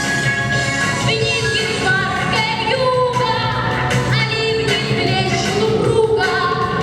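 A female vocalist sings a song over an instrumental backing track, holding long notes that glide in pitch over a steady bass line.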